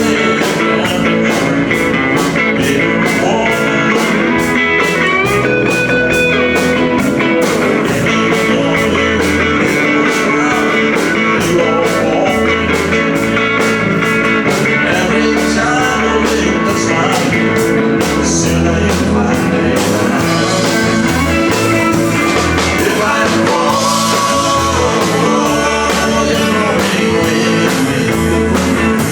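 Live band playing an amplified country-rock number led by guitar, with a steady beat.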